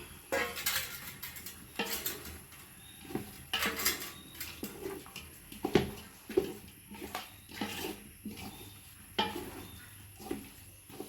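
A spoon scraping and clinking against a cooking pot in irregular strokes as fried chicken pieces are stirred into a thick biryani masala.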